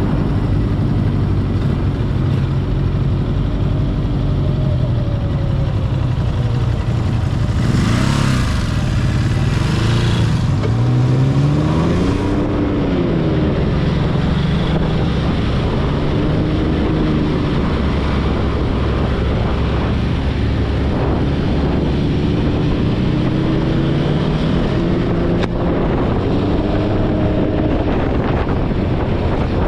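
Ducati Hypermotard engine running under way, its pitch climbing and dropping with throttle and gear changes. A louder rush of noise comes about eight to ten seconds in.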